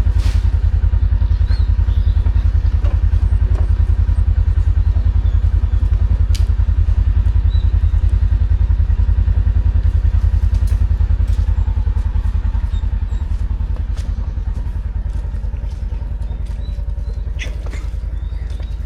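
A farm vehicle's engine running steadily with a fast, even low throb, easing off slightly toward the end. A few light clanks sound over it.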